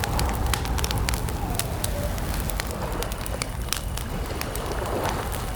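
Wood campfire crackling, with many sharp irregular pops and snaps over a steady low rumble of burning.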